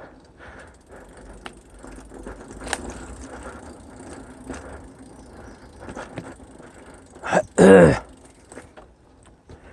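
Mountain bike on a dirt trail, with the bike rattling and scattered clicks. A loud, brief pitched sound comes about seven and a half seconds in.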